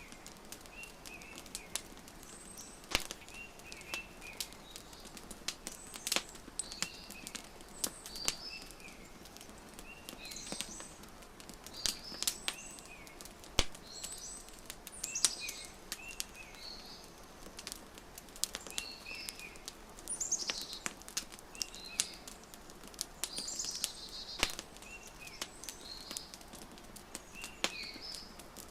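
Wood fire crackling with irregular sharp pops, mixed with small birds chirping in short, high, repeated phrases.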